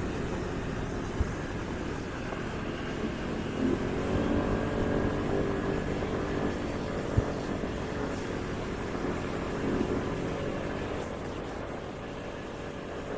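Motorcycle engine running on the move under a steady rush of wind and road noise, its pitch rising and falling a few times, with a couple of brief knocks.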